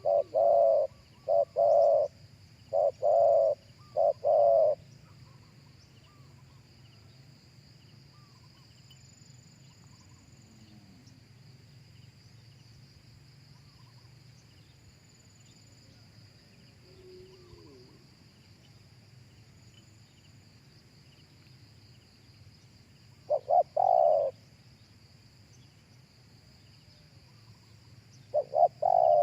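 Spotted dove cooing: a phrase of about five coos in the first five seconds, then a long pause, a short pair of coos about twenty-three seconds in, and another phrase beginning near the end.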